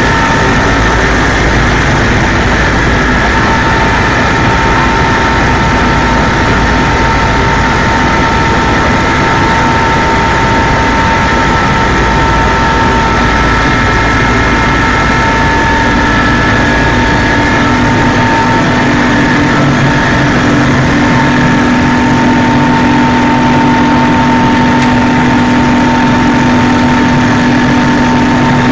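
Helicopter in flight: loud, steady turbine and rotor noise with a steady high whine. Partway through, the deep rumble eases and a lower hum comes up.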